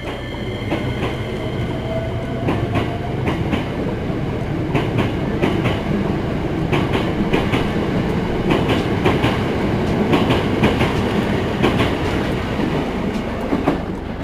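Hankyu limited express electric train pulling out and gathering speed: a steady rumble with the wheels clacking in quick pairs over rail joints as the cars roll by, and a faint rising motor whine about two seconds in.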